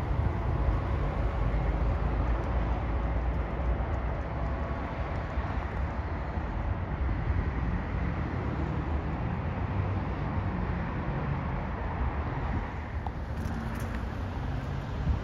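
Low, steady rumble of a departing Metro-North Port Jervis Line commuter train, easing slightly as it pulls away into the distance.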